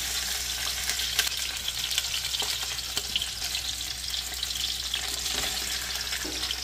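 Steady sizzling with small crackles from chopped vegetables, a sea bass head and fish trimmings frying in a stainless steel stockpot, the first browning stage of a fish bisque.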